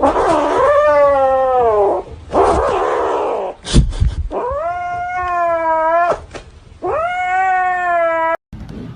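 Cat yowling: three long, drawn-out wails that bend in pitch. Between the first two come a harsh breathy noise and a sharp loud knock.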